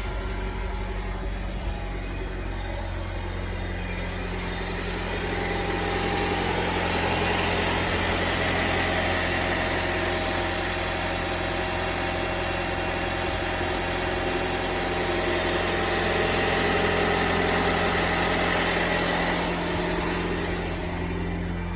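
1997 Honda Prelude SiR's 2.2-litre H22A four-cylinder engine running at idle. It grows a little louder twice, about six seconds in and again about sixteen seconds in.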